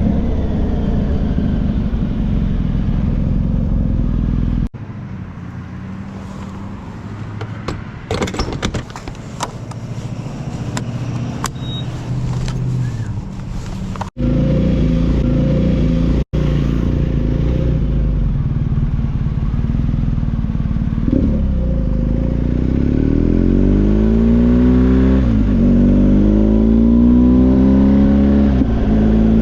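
Motorcycle engine running while riding. There is a quieter stretch of clattering in the middle. In the second half the engine pitch climbs and drops repeatedly as it accelerates through the gears.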